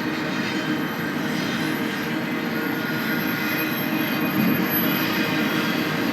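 A BNSF freight train rolling past with a steady rumble and rattle of wheels on rail, and a faint high steady tone throughout.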